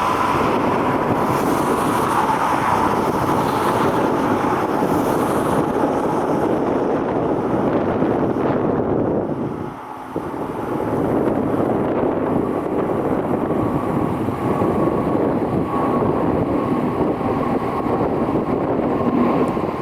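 Jet airliner engines roaring, a steady noise with a high whine running through it; the sound dips briefly about halfway through, then carries on as before.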